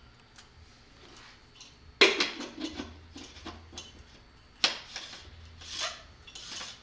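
Hand tools and metal lamp parts handled during assembly: a sharp clack about two seconds in, followed by clattering and rubbing, then another sharp clack and some rustling.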